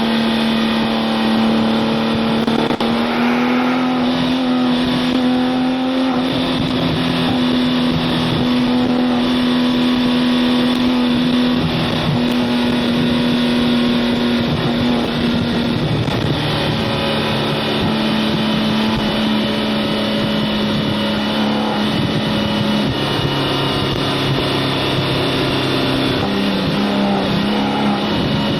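Porsche 997 Turbo S twin-turbo flat-six driving at a steady engine pitch, with a brief break in the note about halfway through and small pitch shifts near the end, over steady road and wind noise.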